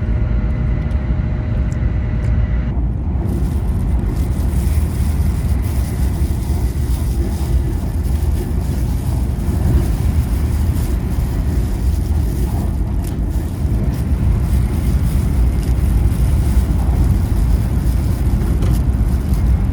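Taiwan High Speed Rail train running at speed, a loud steady low rumble. About three seconds in, a faint steady whine stops and a hiss spreads into the higher pitches and stays.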